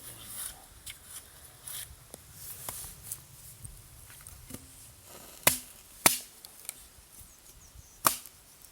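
Wood being chopped for a campfire: three sharp, loud strikes, about half a second apart then two seconds later, with fainter knocks and rustling of wood between them.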